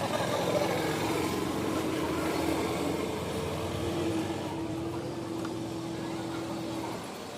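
A motor vehicle engine running steadily with a held hum, which drops away near the end.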